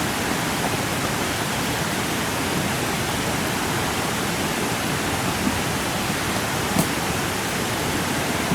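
A steady rushing noise with no pitch, with a couple of faint clicks near the end.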